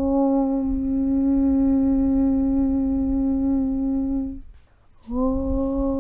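A chanted "Aum" (Om) hum held on one steady low pitch. Near the end it breaks off for about half a second, as if for a breath, and a new "Aum" begins, its pitch sliding up slightly as it settles.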